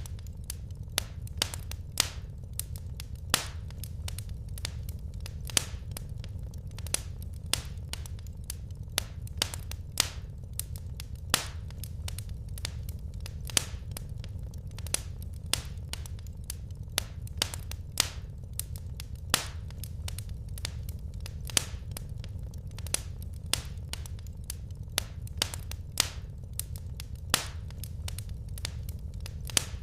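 Wood fire crackling in a fireplace: irregular sharp pops and snaps, about two a second, over a steady low rumble of the flames.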